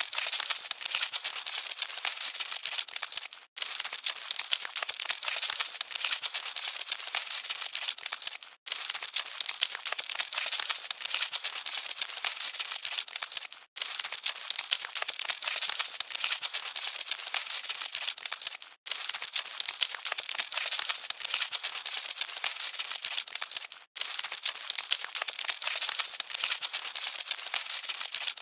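Dense, dry crackling and rustling of scuttling cockroaches: many tiny clicks with no low sound. It is a short loop that drops out briefly about every five seconds, then starts again.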